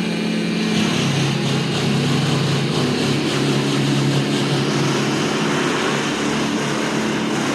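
An engine running steadily, its hum dropping slightly in pitch about a second in.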